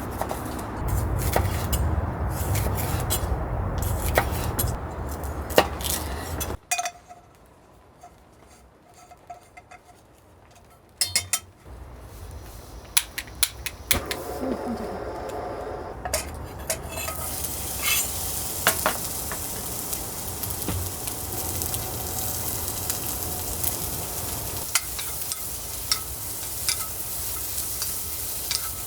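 Food sizzling in a pan, with metal utensils clinking and scraping against the cookware. Before that, a low rumble for about the first six seconds cuts off suddenly, followed by a quieter stretch with scattered clicks.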